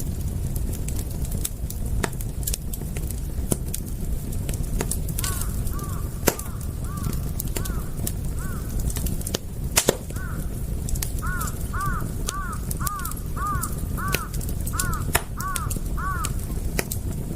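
Wood fire crackling with irregular sharp pops over a low steady rumble. A short chirping call repeats in series, a few at a time at first, then a quick run of about three a second in the second half.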